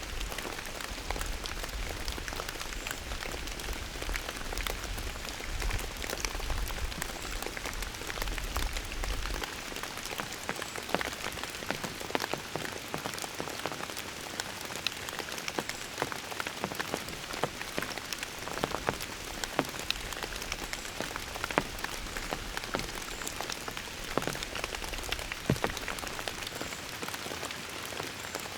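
Steady rain falling, an even hiss dotted with many sharp individual drop strikes. A low rumble underneath stops about nine seconds in.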